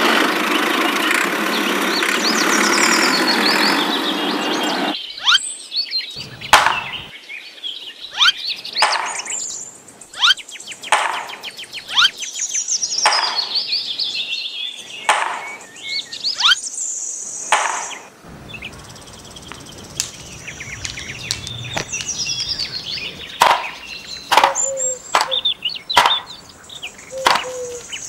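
Birds chirping in quick falling runs of notes, mixed with sharp taps and knocks. A steady motor-like noise runs for the first few seconds and cuts off suddenly.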